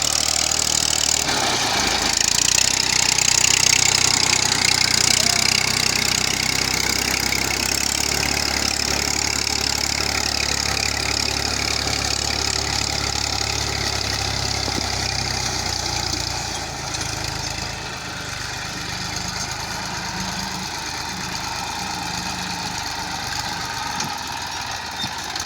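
Tractor engine running steadily, its note dropping and growing quieter about two-thirds of the way through.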